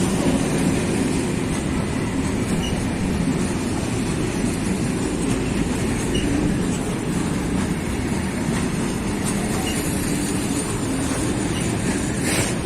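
Train rolling past on the railway line, its wagon wheels running steadily over the rails.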